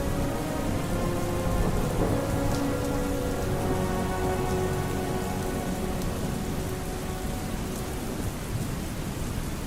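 Steady heavy rain with a low rolling thunder rumble, over faint, distant opera music holding long sustained notes that fade out in the second half.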